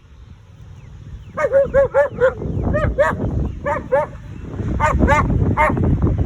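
A dog barking in a series of sharp barks, starting about a second in with four quick barks, then in pairs and single barks, over a low rumbling noise. The dog is barking to drive off charging cattle.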